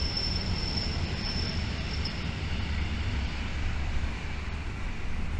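Electric commuter train running on the line beside the museum: a steady low rumble, with a thin high squeal from the wheels for about the first two seconds.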